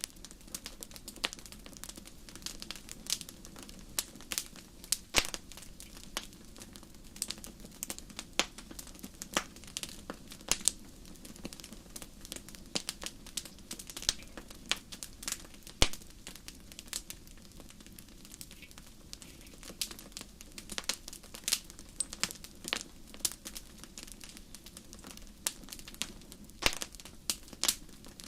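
Wood fire burning in a fireplace, crackling with irregular sharp pops several times a second over a faint steady hiss.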